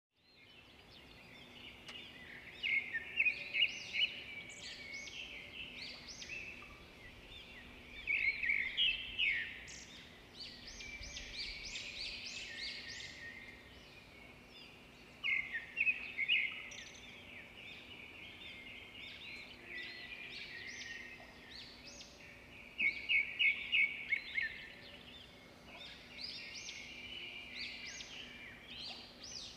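Small songbirds chirping and singing, with bursts of quick trills every few seconds over a faint steady low hum.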